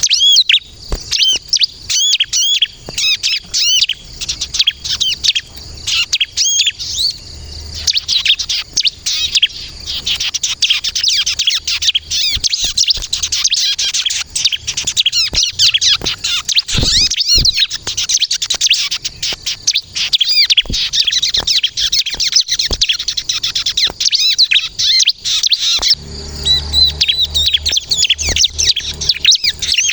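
Bar-winged prinia (ciblek) singing without pause: a fast, high-pitched stream of looping chirps.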